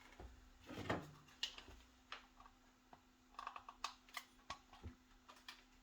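Faint scattered clicks and light taps from handling the T4E HDR 50 revolver and its plastic riot balls, with a quick run of clicks about three and a half seconds in. A faint steady hum lies under them.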